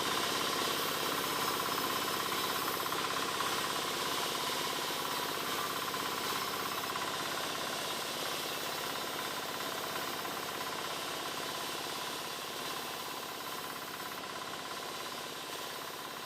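Motor-driven wood saw running steadily, slowly getting quieter over the stretch.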